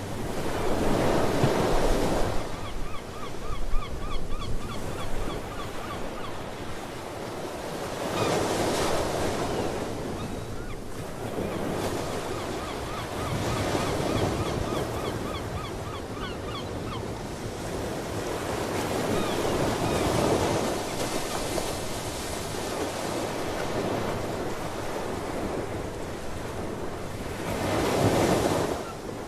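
Ocean waves breaking on the shore, swelling and fading every five or six seconds, with seabirds calling in a quick repeated series a few seconds in and faintly again later.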